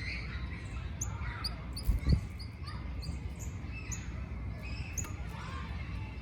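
Garden birds chirping: a run of short, high chips and quick falling notes, several a second, over a steady low rumble, with one low thump about two seconds in.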